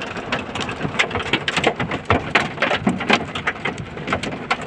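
Hailstorm with heavy rain: hailstones strike hard surfaces in a dense, irregular run of sharp hits over the steady hiss of the downpour.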